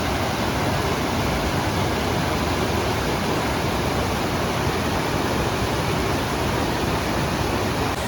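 Waterfall: falling water making a loud, steady, even rush of noise.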